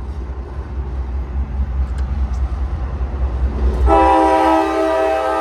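Low rumble as a Norfolk Southern freight train approaches, then about four seconds in the diesel locomotive's air horn starts sounding one long chord of several notes.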